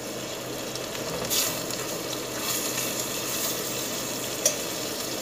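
Cuttlefish sizzling in sauce in a stainless steel pot while a metal spoon stirs it, with one sharp clink of the spoon against the pot about four and a half seconds in.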